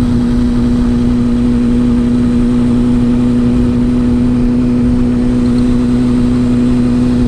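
Motorcycle engine running at a steady, unchanging pitch over a low rumble, heard from the rider's own bike.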